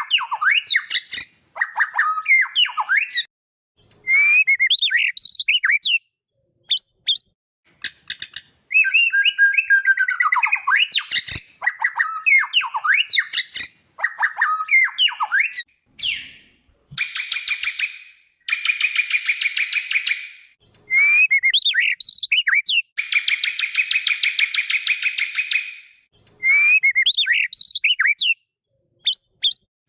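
White-rumped shama (murai batu) song: rapid, varied whistled phrases with quick gliding notes. From about halfway on, the phrases alternate with long, harsh, buzzing rattles.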